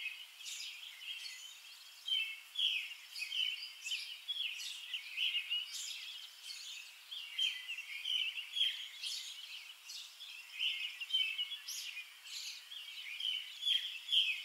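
Small birds chirping: many short calls overlapping in quick succession.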